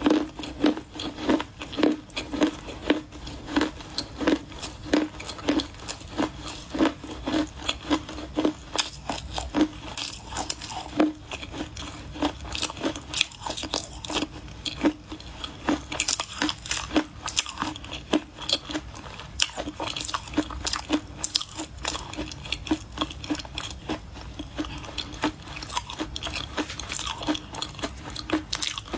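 Dry clay crunching as it is bitten and chewed, close to the microphone: sharp cracks about two a second at first, coming closer together and crisper in the second half.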